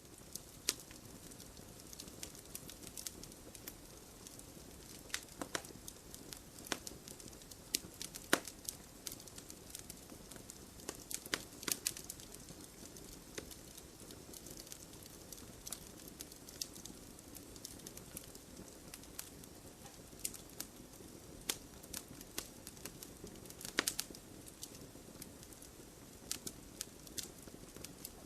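Campfire burning with a steady low hiss and irregular crackles and pops of burning wood.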